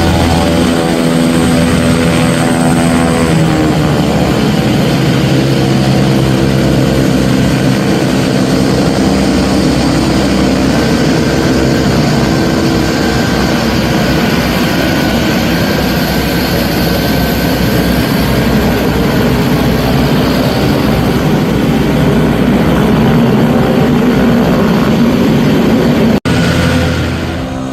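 Propeller aircraft engines running loud and steady, with a hum of several even tones over a rushing noise. The sound cuts out for an instant near the end and comes back quieter.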